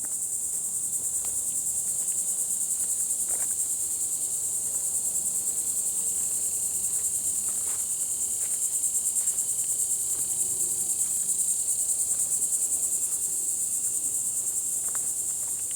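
Steady, high-pitched insect chorus in the woods, a fast pulsing drone that never breaks.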